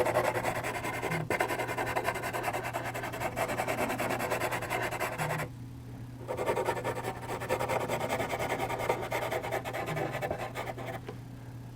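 HB charcoal pencil shading in small, quick circles on toothy charcoal paper: a fast, continuous scratchy rubbing that pauses for about a second midway and again near the end, over a steady low electrical hum.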